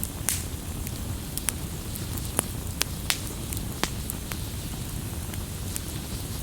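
Wood fire crackling: sharp pops and snaps, most of them in the first four and a half seconds, over a steady low rumble.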